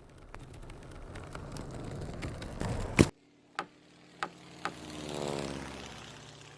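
A whoosh that builds for about three seconds and ends in a sharp hit, followed by three light clicks and a swelling tone that sinks in pitch and fades.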